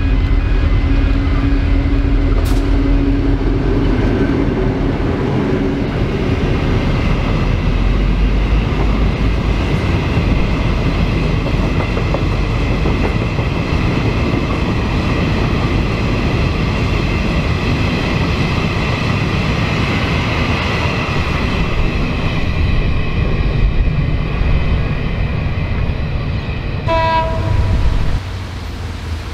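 Diesel-hauled freight train passing. The locomotive's engine drone fades over the first few seconds, then the wagons roll by with a long, steady rumble and rail noise. A brief tone sounds near the end, just before the noise drops away.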